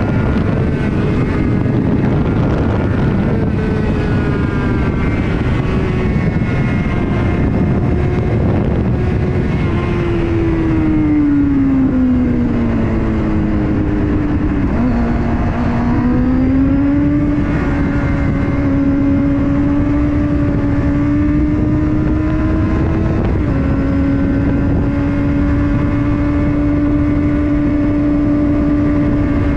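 Honda CBR 600RR sport motorcycle engine running hard under way, over a steady rush of wind. Its pitch holds high, sinks for a few seconds as the bike slows, jumps up abruptly about halfway through, climbs slowly, then steps up again later on.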